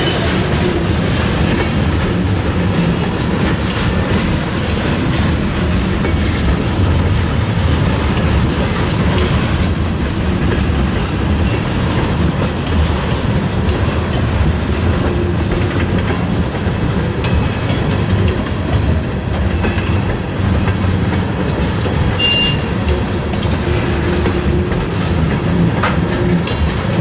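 Freight train moving slowly during a switching move: a steady rumble with wheels clicking over rail joints and a brief high squeal about two-thirds of the way through.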